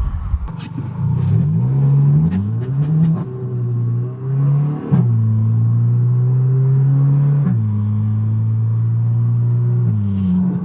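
Audi A3 1.4 TFSI turbocharged four-cylinder engine and exhaust revving: the pitch climbs and drops a few times, then holds steady, jumping suddenly to a new pitch three times.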